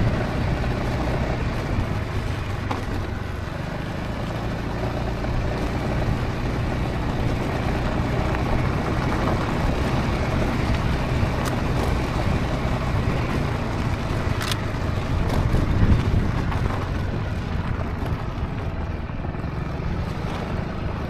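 Honda ADV350 maxi scooter's single-cylinder engine running steadily under way, mixed with a continuous rush of wind and road noise, with a brief swell about three-quarters of the way through.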